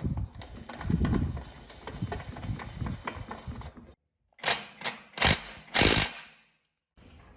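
Irregular clicking and knocking of hand work on machine parts, then, after a short gap, a few loud sharp knocks about half a second to a second apart.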